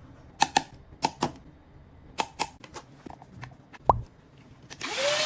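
Sharp clicks, several in quick pairs, from a torque screwdriver as small screws inside an iPhone 14 Pro are tightened to their set torque. Near the end a small motor starts up with a steady whine and hiss.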